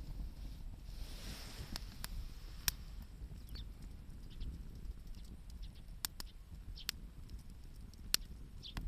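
Wood campfire crackling: sharp, irregular pops every second or so over a steady low rumble.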